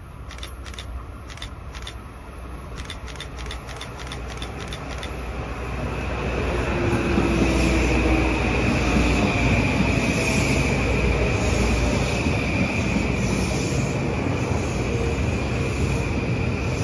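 Metro-North M8 electric multiple-unit train approaching and running past, its wheel-on-rail rumble growing louder over the first seven seconds and then holding steady. A run of sharp clicks sounds in the first five seconds, and a high steady whine rides over the running noise once the cars are alongside.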